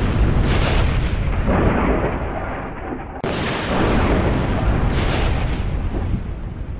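Thunder rolling in a series of low rumbles, with a sudden sharp crack about three seconds in that starts another long roll, dying down near the end.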